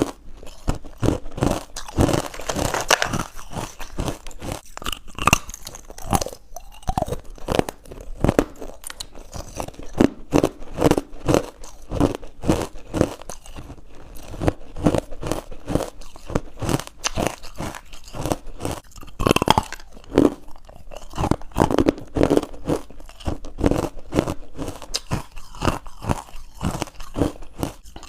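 Close-up chewing of crunchy white ice bites: rapid, steady crunching, several crunches a second with the brittle ice crumbling between the teeth.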